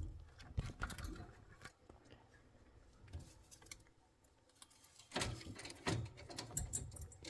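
Light clicks and small rattles of a pet bird climbing about inside its metal cage, partly wrapped in cloth, its beak and feet on the bars. The clicks are scattered at first, go nearly quiet midway, then grow busier and louder near the end.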